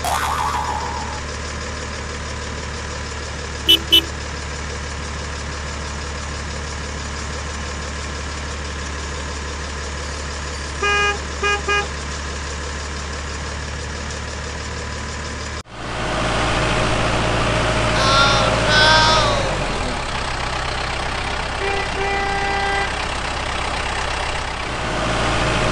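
Vehicle engine idling steadily, with short horn beeps: two quick ones about 4 s in and three around 11 s. At about 16 s the engine sound switches abruptly to a different, louder idle, followed by more horn beeps.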